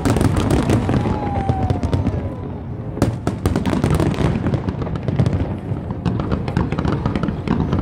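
Aerial fireworks display: a rapid barrage of shell bursts and crackling, with a sharp bang about three seconds in.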